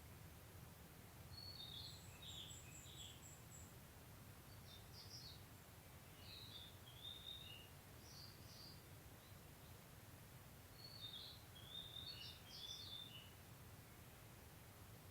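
Faint songbird calls: short chattering phrases in several bouts, with a row of thin high ticks about two seconds in, over a steady low background hum.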